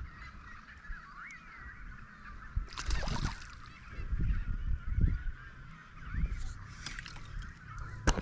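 Many waterbirds calling at once in a steady chorus of wavering calls. A splash comes about three seconds in, with a few low knocks around it.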